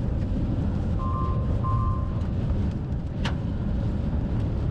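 Steady low rumble of a vehicle in motion, with two short electronic beeps about a second in and a sharp click a little after three seconds.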